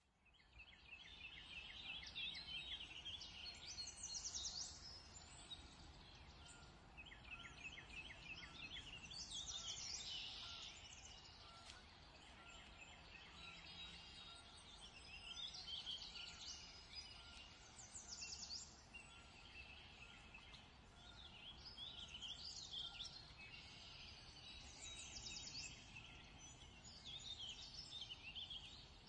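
Faint chorus of small songbirds: repeated high chirps, short warbled phrases and rapid trills, over a low steady hiss.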